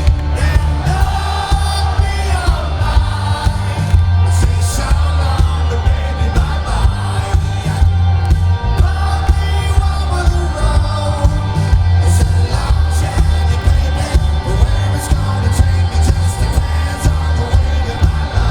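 Live rock band playing at full volume through a concert PA: heavy drums and bass, electric guitars and a singer.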